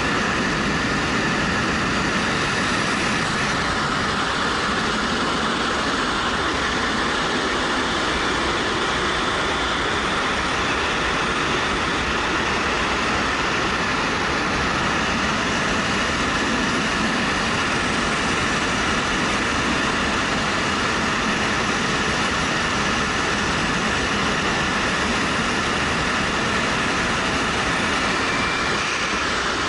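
Steady rush of wind over a helmet-mounted camera with a 2013 Suzuki GW250's parallel-twin engine running underneath, a motorcycle cruising at speed.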